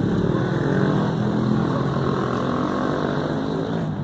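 A motor engine running with a steady low drone.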